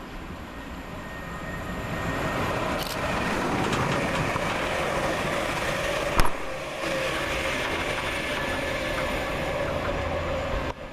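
Two coupled Class 360 electric multiple units passing through at speed. The rail and running noise builds over the first few seconds and then holds steady, with a sharp clunk about six seconds in.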